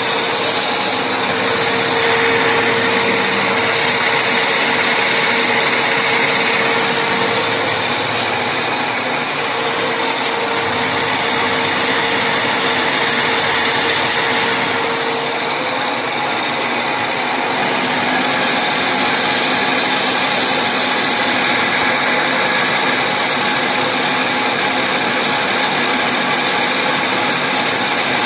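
An electric machine tool running continuously with a steady motor whine and hiss; its pitch and pattern shift twice partway through.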